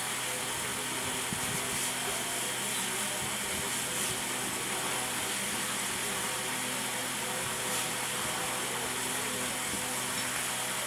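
A steady mechanical hum, holding a constant low tone under an even hiss.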